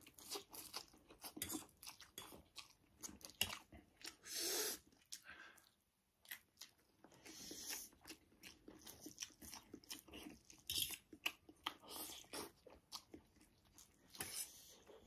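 Quiet close-up eating sounds: chewing and mouth smacking on spicy instant noodles, a rapid string of small wet clicks, with a couple of longer airy sounds about four and a half and seven and a half seconds in.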